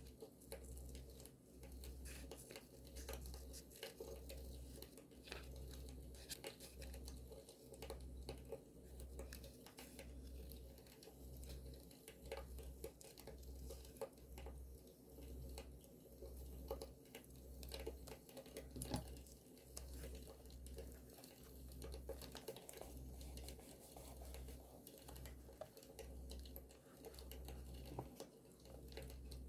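Paper being handled, crinkled and torn for journal decorating, faint, over a campfire crackle of scattered small clicks. A low hum pulses about once a second underneath.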